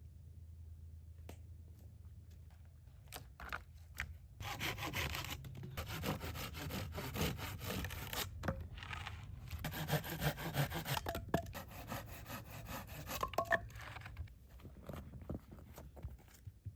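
Hand saw cutting through wood, a steady back-and-forth rasp that starts about four seconds in, pauses briefly a couple of times and stops a few seconds before the end.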